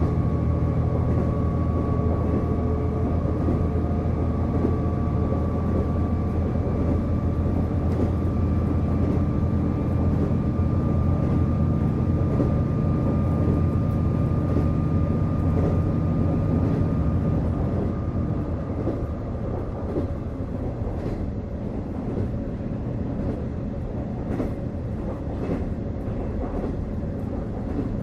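Interior running sound of the KiHa 48 diesel railcar: the diesel engine pulls under power with a steady whine. About two-thirds of the way through the engine note and whine die away as the train coasts, and the wheels click over rail joints.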